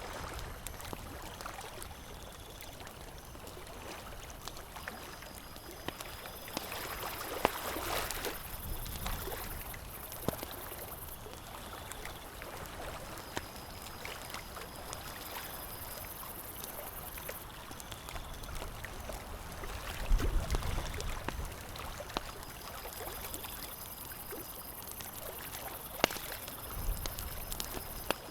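Campfire crackling, with scattered sharp pops, over a steady watery wash. A high thin buzz comes and goes, and a low rumble swells briefly about two-thirds of the way in.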